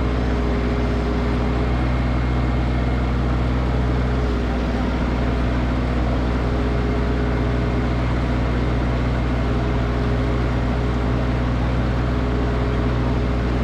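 Snowblower's gasoline engine running steadily at constant speed, its tone wavering briefly about four seconds in.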